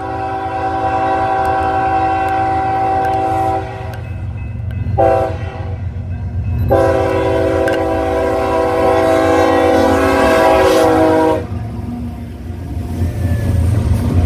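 BNSF 3253 diesel locomotive's multi-chime air horn sounding loudly over the low rumble of the passing train. The pattern is a long blast, a short one and another long one, the close of a grade-crossing signal. After the horn stops, about 11 seconds in, the rumble of the engine and train carries on.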